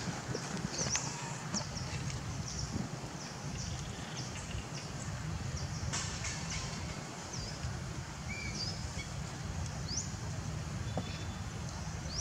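Small birds chirping: many short, high, rising chirps scattered throughout, over a steady low rumble.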